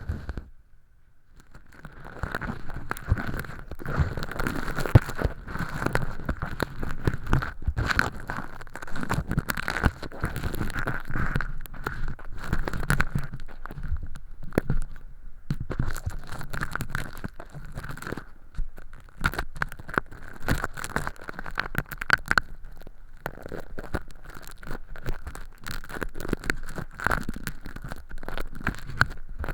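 Earpick scratching inside a silicone ear model's canal, with dense, irregular crackling and rustling as thin flakes of fake earwax peel away. It starts about a second and a half in.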